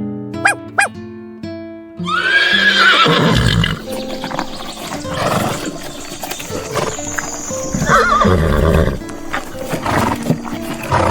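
Horse whinnying, a loud call about two seconds in and a shorter wavering one near eight seconds, over background music with plucked notes. Two short dog barks come just before the first whinny.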